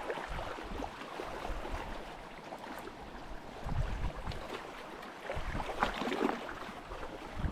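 Sea water in a strong current washing and surging over rocks, a steady rush that swells louder about four and six seconds in.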